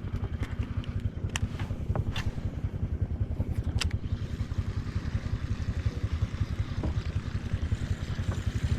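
Small boat engine running at a steady, even chug, with a few sharp clicks on board.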